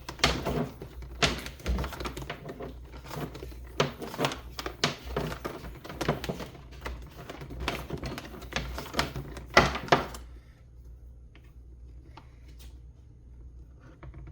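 Hard plastic parts of an electric pressure washer being handled and fitted together during assembly: a fast, irregular run of clicks, knocks and rattles that stops about ten seconds in.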